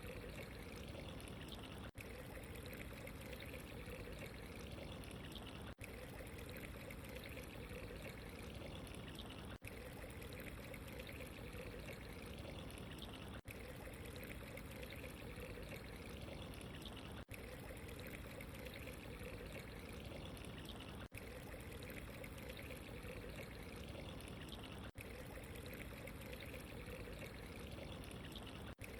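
Steady running water, pouring and trickling without a break, with a brief dip in level about every four seconds.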